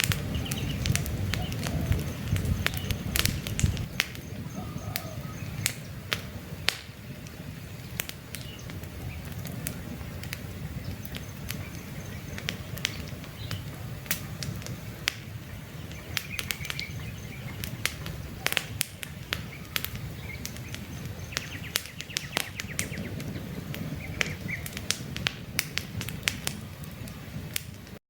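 Wood campfire burning, with frequent sharp crackles and pops over a steady low rumble of flame. Birds chirp briefly a few times in the background.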